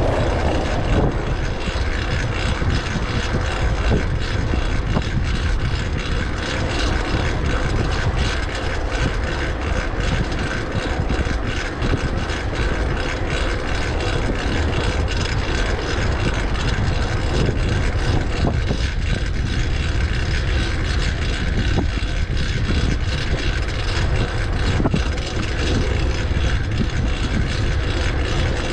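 Riding a fixed-gear bicycle: wind rumble on the microphone mixed with a steady whine from the loud drivetrain, the chain running on a new cog.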